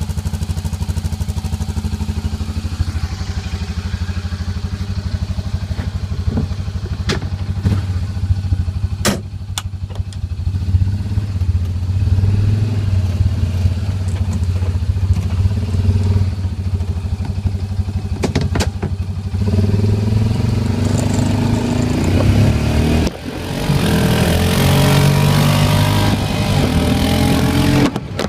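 Honda Pioneer side-by-side engine running through an HMF aftermarket exhaust: a steady idle with a few sharp clicks, then about two-thirds of the way through it revs up and pulls under throttle, louder, with a brief sudden drop in the note partway through.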